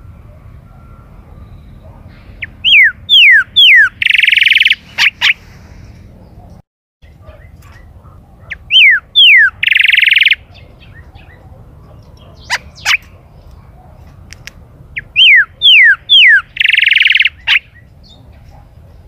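Chalchalero (golden-billed saltator) singing three loud phrases, each a run of three or four downward-slurred whistles ending in a rapid buzzy note. Two short sharp notes fall between the second and third phrase.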